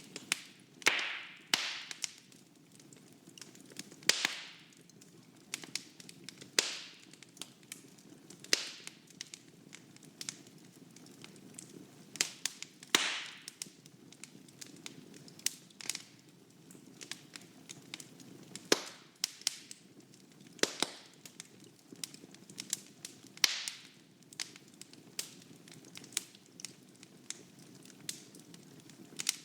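Wood fire burning in a fireplace: irregular crackling with frequent sharp pops and snaps, a few of them loud with a brief hiss after, over a faint steady rustle of flame.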